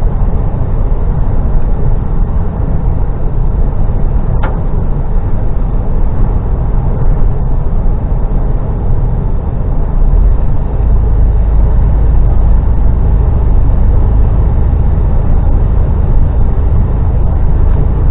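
HGV lorry's diesel engine and road noise, a steady heavy low rumble that gets heavier about ten seconds in, with a single sharp click about four seconds in.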